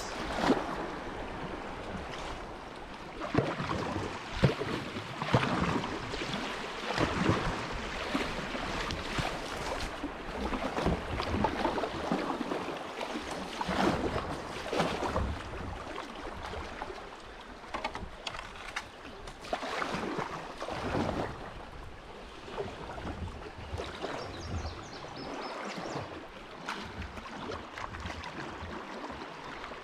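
Kayak paddle strokes splashing in river water, an irregular stroke about every second or so over a steady wash of moving water, the splashes growing softer in the last third.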